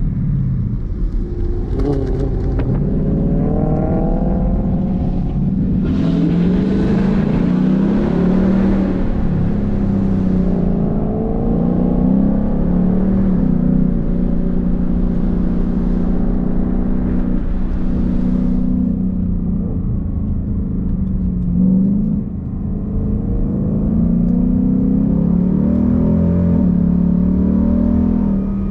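Ford Mustang engine heard from inside the cabin during hard driving on a twisty road. It repeatedly accelerates with a climbing pitch, drops back as it shifts gear or eases off for corners, then pulls again, over a steady low rumble of road and tyre noise.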